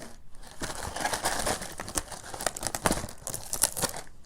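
Crinkling and rustling of a fortune-cookie wrapper handled up close: a dense run of small crackles starting about half a second in.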